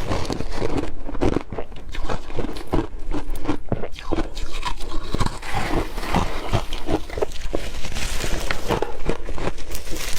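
Hard crushed ice being bitten and chewed close to the microphone: a dense, continuous run of sharp crunches and cracks.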